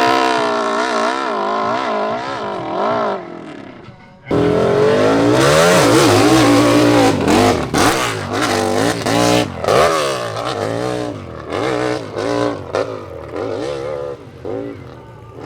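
Big-displacement hillclimb motorcycle engine revving hard, its pitch rising and falling as the throttle is worked. It fades and cuts off suddenly about four seconds in, then comes back loud and from about seven seconds on runs in rapid short bursts of throttle.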